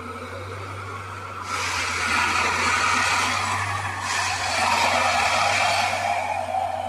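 Plasser Unimat track tamping machine working: a steady low engine hum under a loud hissing, grinding noise that comes in surges every two to three seconds.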